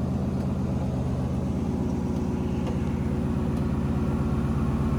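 Jeep Wrangler JK's V6 engine running steadily at low, even revs on an off-road trail, a low drone with no change in pitch.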